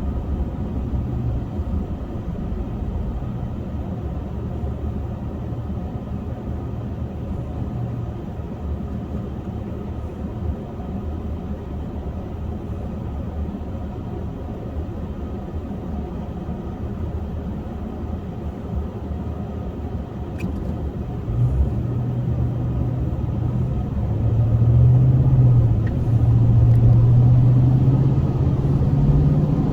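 A steady low rumble with a droning hum, of the kind a motor vehicle makes. It gets louder about two-thirds of the way in, and the hum rises a little in pitch near the end.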